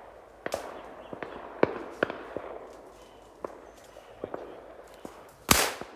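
Shotguns firing: scattered fainter shots from guns farther off, then one loud close shotgun blast near the end.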